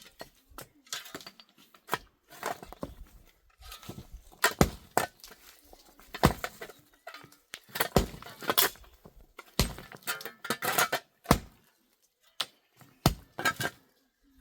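A series of sharp knocks and thuds at an uneven pace, roughly one a second, with short pauses between them.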